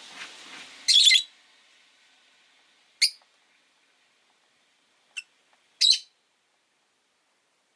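Rosy-faced lovebirds giving four short, sharp high-pitched chirps, the first about a second in the longest and loudest, the others at roughly two-second gaps. A faint rushing street noise fades out in the first second.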